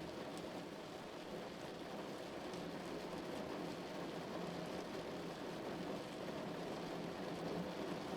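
Rain falling on a car, heard from inside the cabin: a steady, even patter that begins abruptly.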